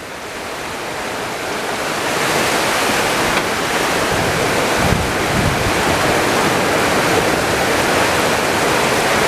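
Strong wind and heavy rain of a summer storm, a dense rushing noise that builds over the first two seconds and then holds steady. A gust buffets the microphone about five seconds in.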